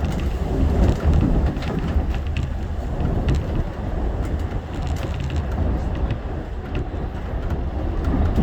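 Shonan Monorail 5000 series suspended monorail train running between stations: a steady low rumble from its rubber tyres on the track beam and its drive, with scattered faint clicks.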